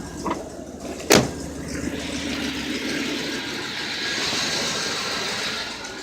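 1992 Chevrolet pickup's engine running, not running well on year-old gasoline. There is one sharp knock about a second in, and the running sound grows fuller and louder after that.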